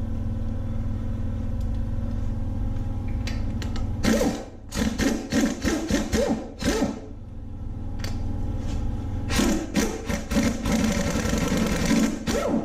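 Handheld power wrench running in two rattling bursts of a few seconds each, spinning out bolts on an LS V8 engine during teardown. A steady low hum sits underneath.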